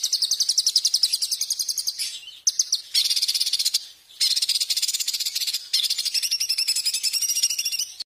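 A songbird singing a high-pitched, rapidly repeated rattling trill in several long phrases, with brief breaks about two and four seconds in, used as tutoring song for competition songbirds. It cuts off suddenly near the end.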